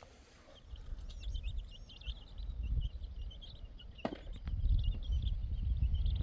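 Steady low rumble of wind, growing louder in the second half, with small birds chirping repeatedly high above it and one brief sharp sound at about four seconds.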